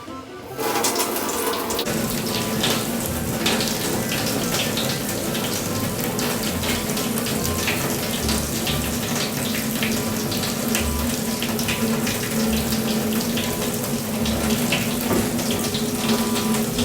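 Water running from a tap, starting suddenly about half a second in and then running steadily with a spatter of small splashes.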